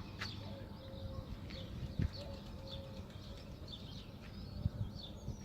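Small birds chirping in many short, high notes, over a dove cooing in a low note repeated about once a second. There is a brief knock about two seconds in.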